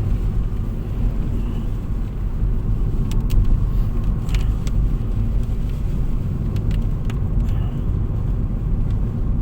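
Car driving, heard from inside the cabin: a steady low rumble of engine and road noise, with a few light clicks about three to seven seconds in.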